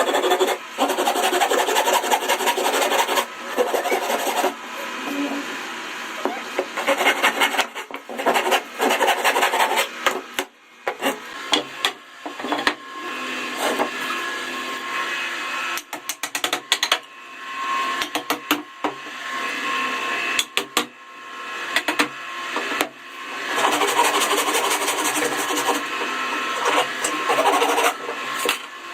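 Wood being worked with hand tools: long rough scraping strokes, broken by short pauses and sharp knocks.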